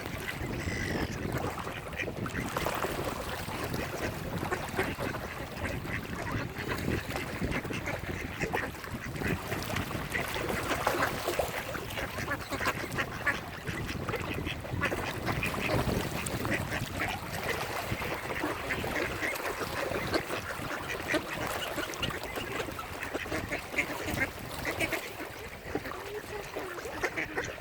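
Many mallard ducks quacking at once, a dense run of overlapping short calls without pause.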